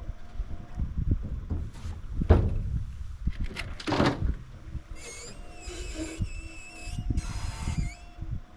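Strong wind buffeting the microphone, with a few knocks and thuds. In the second half comes a few seconds of high, wavering squealing over a steady hum.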